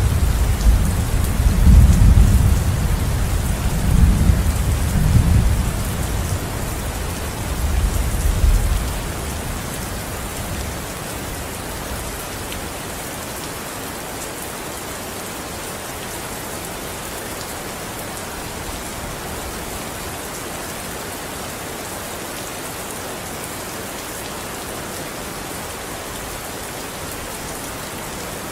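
Steady heavy rain, with a roll of thunder rumbling low in the first nine seconds or so, swelling several times before it dies away. The rain carries on alone after that.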